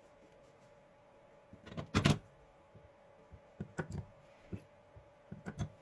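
Bench work on a replacement 1.2 V battery cell as its nickel tabs are tacked on: one short louder burst about two seconds in, then a few light clicks and taps, over a faint steady hum.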